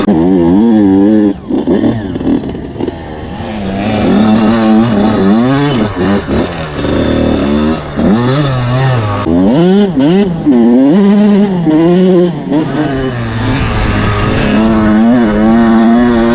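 Two-stroke engine of a Kawasaki KX80 dirt bike being ridden, the revs climbing and dropping over and over with throttle and gear changes. There are quick up-and-down rev swings in the middle and steadier high revs near the end.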